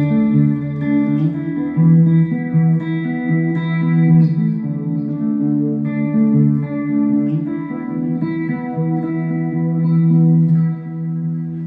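Electric guitar played through a Mooer GE100 Pro multi-effects preset: picked notes and chords that ring on with long sustain, easing off near the end.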